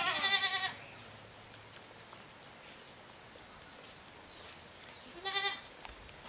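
A goat bleating twice: a short wavering bleat right at the start and another about five seconds in.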